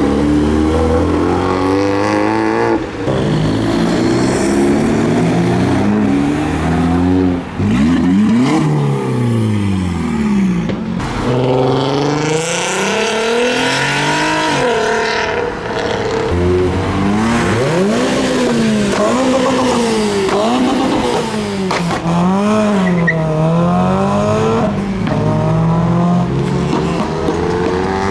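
Modified cars revving hard and accelerating away one after another, their engine notes rising and falling many times, with some sweeping past.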